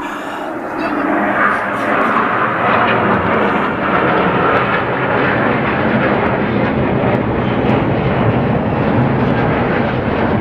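Display-team aircraft flying past overhead. Their loud engine noise swells over the first two seconds, then holds steady.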